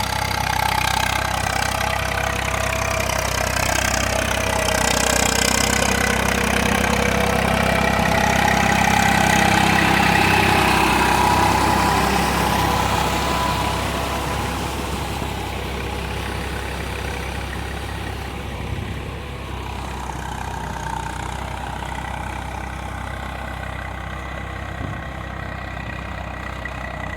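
Tractor engine running steadily. It grows louder in the middle, then eases off and runs quieter.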